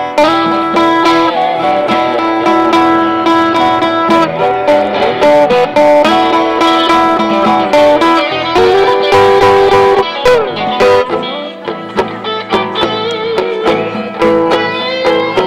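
Blues guitar solo over the band's backing: held notes and runs, with a quick sliding bend about ten seconds in.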